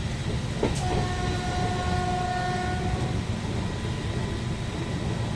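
Train running with a steady low rumble; about a second in, a train horn sounds one steady chord for about two seconds.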